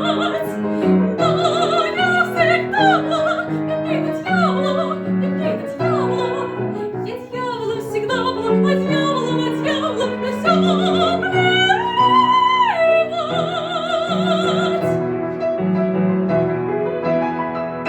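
Soprano singing an operetta song with piano accompaniment, her voice in a quick vibrato. She holds a high note about twelve seconds in, and the piano plays on alone for the last few seconds.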